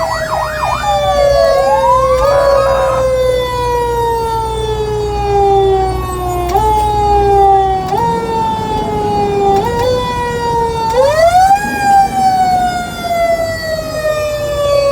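Fire engine siren on a response: a quick warbling yelp at the start, then a long wail that winds down slowly, is pushed back up in small steps, and rises sharply again about eleven seconds in before falling off. A low truck engine rumble runs under it for the first half.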